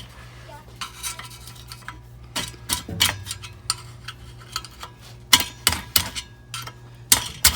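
Irregular sharp metallic clinks and rattles of a gas water heater's burner-assembly parts being handled and pulled loose, a cluster of the loudest about five to six seconds in. A steady low hum runs underneath.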